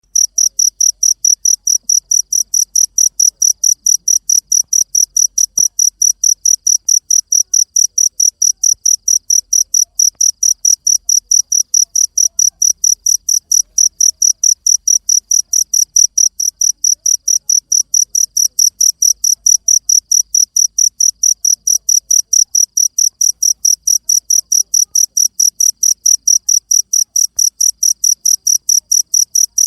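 Cricket chirping steadily and loudly, one high-pitched chirp repeated evenly nearly four times a second.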